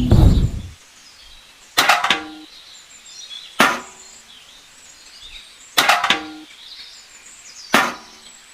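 Metal being struck: four sharp clanks about two seconds apart, each ringing briefly, with birds chirping faintly between them.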